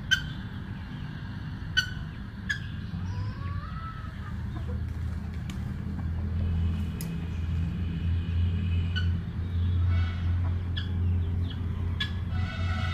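Fowl clucking and small birds chirping over a steady low rumble that grows louder about halfway through, with a few sharp clicks.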